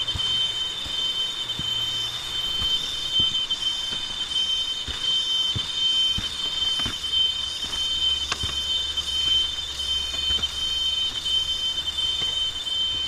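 Cicadas in tropical forest droning steadily at a high pitch, with scattered light clicks.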